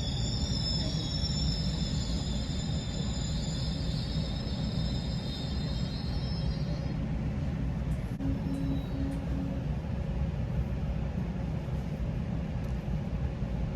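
GO Transit commuter train running between stations: a steady low rumble of wheels on rail. A high, wavering whine rides over it for the first seven seconds or so and then fades out.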